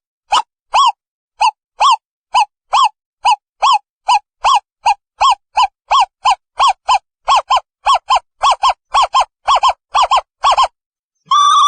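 Asian barred owlet calling: a long series of short hooting notes, each rising then falling in pitch, about two a second at first and quickening to about three a second. Near the end a longer, wavering call begins.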